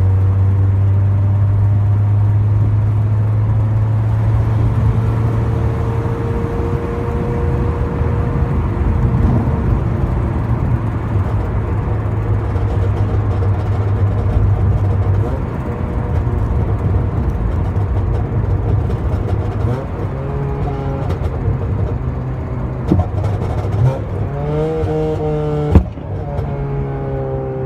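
2008 Honda Civic Si's 2.0-litre four-cylinder engine, breathing through a header, test pipe and 2.5-inch catback with the stock axle-back, running at a steady pitch for about fifteen seconds. It then turns uneven, with the revs rising several times near the end and a single sharp click shortly before the end.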